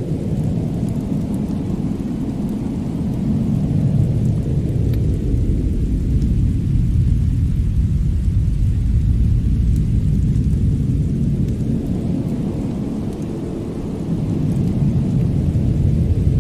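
Winter attic ambience: a deep, steady rumbling noise that swells a few seconds in and again near the end, with a few faint crackles from a fireplace.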